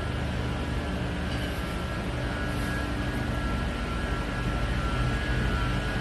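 A 1-ton gas boiler running: steady burner and blower noise with a low rumble and a few faint steady high tones.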